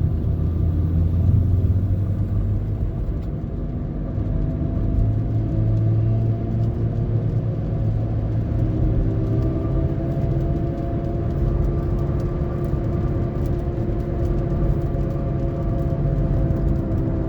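Saturn Vue driving at speed off the throttle, over road noise: a steady low hum with droning tones that drift slowly in pitch and come through more clearly in the second half. The hum is the sign of a failing wheel bearing assembly.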